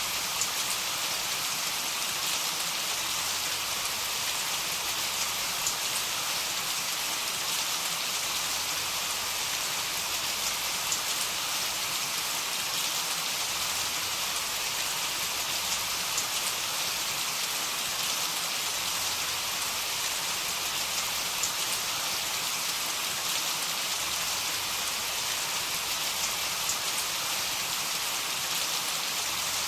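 Heavy rain falling steadily: a dense, even hiss of rain on surfaces with occasional sharper drop ticks, and no thunder.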